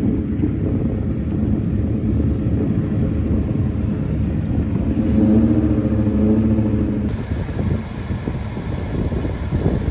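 BMW 135i's turbocharged straight-six engine running at low speed, a steady hum that grows louder about five seconds in and eases off about two seconds later.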